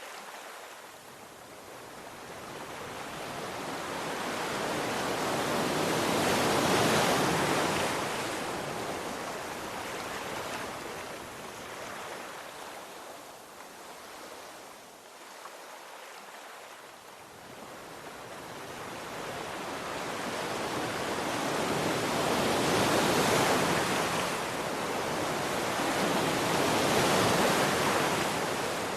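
Sea waves breaking and washing ashore in slow surges that swell and fade, loudest about a quarter of the way in and twice more in the last third.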